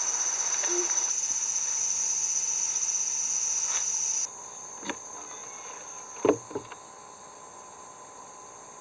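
Insects buzzing in a steady, high chorus that cuts off suddenly a little under halfway through. A quieter, fainter insect background follows, with a few short knocks.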